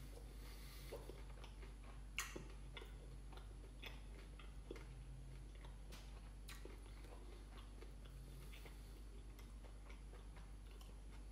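A person quietly chewing fried chicken: soft, scattered mouth clicks and crunches, with one sharper click about two seconds in.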